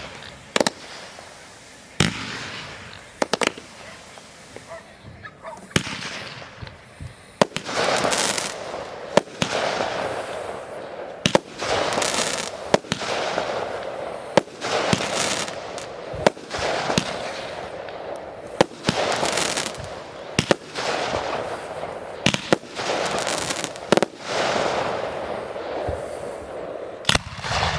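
Fireworks display: sharp bangs of bursting shells, sparse at first and then a dense run of bursts each followed by about a second of noisy fizzing.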